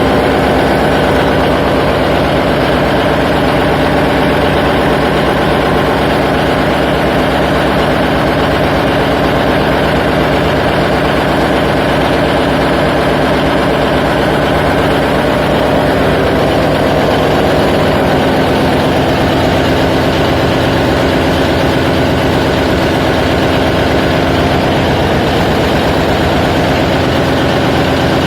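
Ship's marine diesel engine running steadily and loudly in the engine room, an even drone with a constant pitch.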